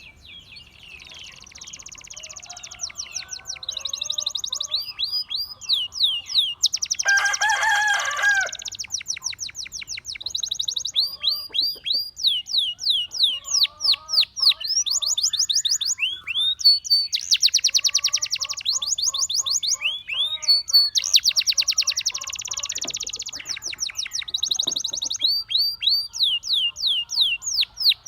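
Gloster canary singing a long, continuous song of rapid trills, fast series of short down-slurred whistled notes alternating with buzzy rolls.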